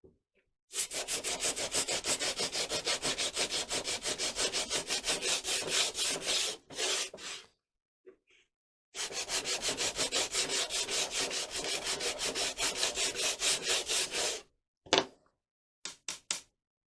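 Hand sanding: sandpaper rubbed back and forth in quick, even strokes of about five a second, in two runs of several seconds with a short pause between. A sharp knock and a few light clicks follow near the end.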